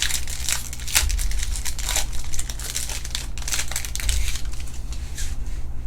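Foil trading-card pack wrappers crinkling and tearing as packs are opened and the cards handled, a dense run of crackles that thins out near the end.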